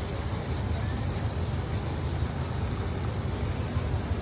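Steady low rumble with an even hiss over it, with no single event standing out: outdoor ambience of a busy promenade.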